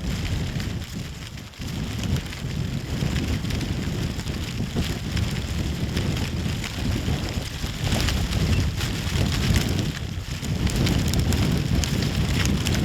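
Strong wind buffeting the microphone, a gusting rumble that swells and eases, with a steady light crackle and rustle over it.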